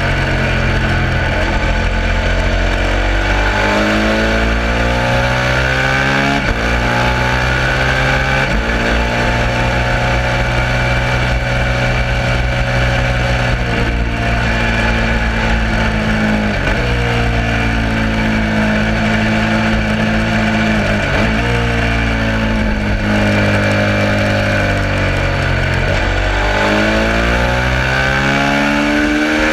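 Suzuki SV650 V-twin race bike engine under way, its revs climbing and dropping sharply at gear changes several times, over a steady rush of noise.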